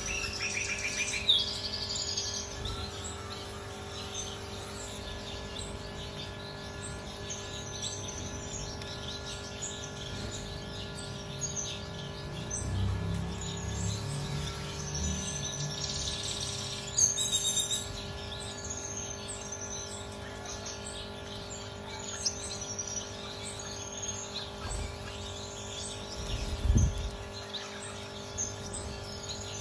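Gouldian finches chirping, many short high calls scattered throughout, over a steady hum. A brief low thump sounds near the end.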